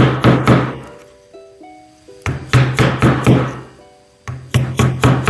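Quick runs of sharp knocks as a caning wedge is driven along the groove, pushing wet cane webbing down into a chair seat. Three bursts of several knocks each, over quiet background music.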